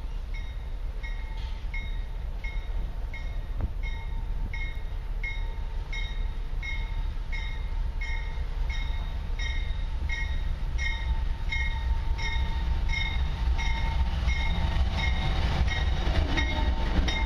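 Canadian Pacific diesel freight train, led by GE AC4400CW locomotive 9629, approaching and drawing alongside, its low rumble growing steadily louder. A bell rings evenly, a little under twice a second, until the passing locomotives drown it out near the end.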